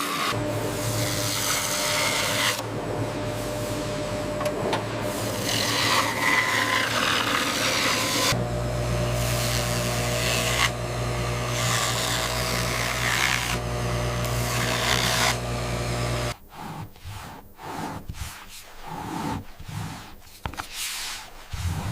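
A motor-driven workshop tool running with a steady hum under repeated rasping, scraping strokes; the motor stops about sixteen seconds in, leaving short, broken rubbing and handling sounds.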